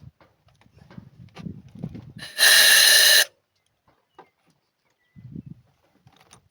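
Clicks and knocks of tools being handled, then a loud hiss lasting about a second that starts and stops sharply, followed by a few light clicks.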